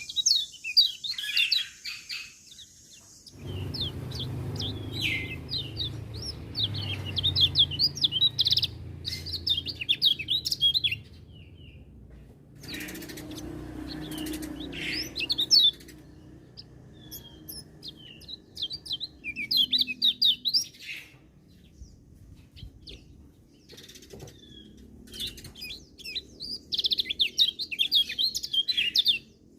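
Kecial kuning (yellow white-eye) singing: bouts of rapid, high twittering chirps a few seconds long, broken by short pauses. A low rumble runs under the song for several seconds in the first half.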